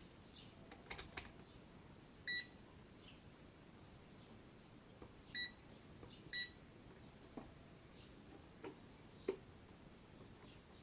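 Three short, high electronic beeps, the second and third about a second apart, among a few faint clicks and taps.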